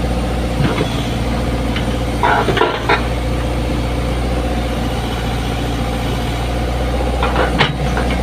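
Komatsu PC75 excavator's diesel engine idling steadily, with short knocks about two and a half seconds in and again near the end.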